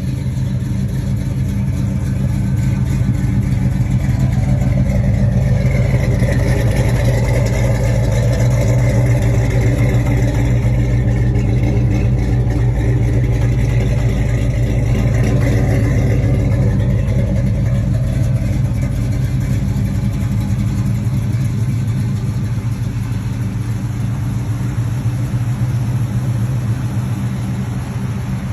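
1972 Chevrolet Chevelle Malibu's gasoline V8 running steadily, its note swelling up and back down once in the middle.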